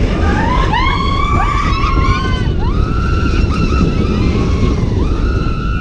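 Train running with a steady low rumble, under a string of high squeals that slide up in pitch and hold, several overlapping.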